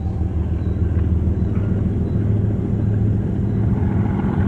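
Steady low rumble of a freight train of tank cars rolling along the rails.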